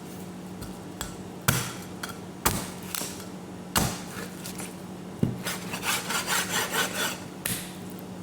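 Knife chopping on a wooden cutting board: a few sharp single chops a second or so apart, then a quick run of lighter strokes at about four a second, over a steady low hum.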